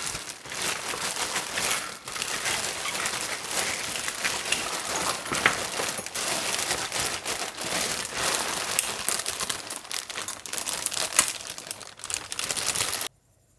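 Wood fire crackling and popping steadily in a stove or fireplace, with many small sharp pops, then cutting off suddenly near the end.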